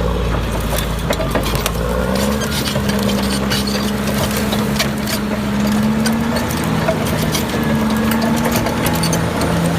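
Electric motors of a Huina 1592 RC model excavator whining steadily as it drives, the pitch stepping up and down several times, with scattered small clicks and crunches of loose stones.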